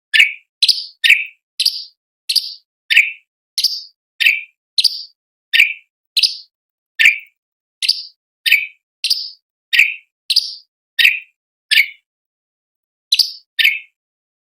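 Cucak cungkok (orange-bellied leafbird) calling in a run of short, sharp notes, about two a second, alternating between a higher and a lower pitch, with a brief pause about twelve seconds in.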